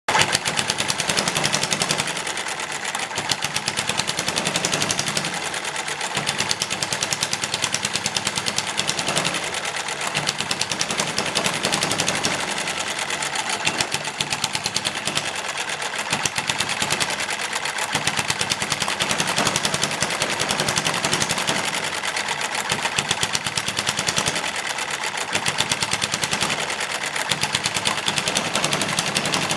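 Small hit-and-miss engine built from bar stock running fast, a dense clatter of rapid knocks that swells in firing spells of a second or two and eases off between them as the governor lets it coast. The desk it is clamped to rattles loudly along with it, and loose things on the desk bounce and add to the racket.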